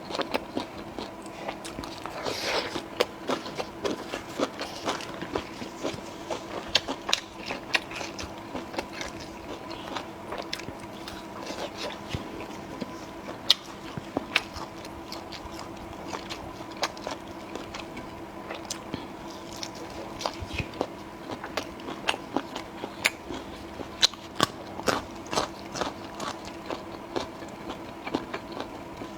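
Close-miked eating: biting and chewing a roll of dried tofu skin wrapped around raw onion and cilantro, with many sharp crunches and wet clicks throughout.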